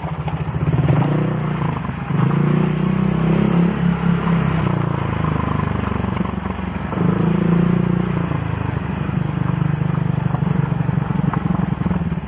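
Honda Click scooter's single-cylinder four-stroke engine with an aftermarket exhaust pipe, running at low speed. It rises in pitch and level with the throttle about a second in, again from about two to four seconds, and once more around seven to eight seconds.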